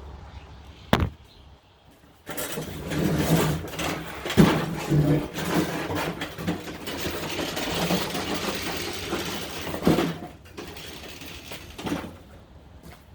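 2014 Dodge Challenger engine cold-starting: a click about a second in, then the engine fires with a sudden loud burst and runs loud and uneven for several seconds before settling to a quieter level near the end.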